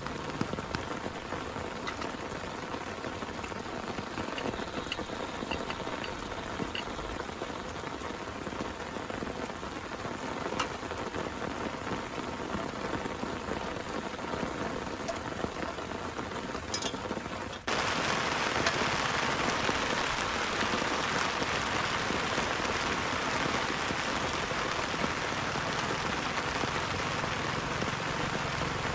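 Heavy rain falling steadily. About 18 seconds in, it cuts suddenly to louder, hissier rain.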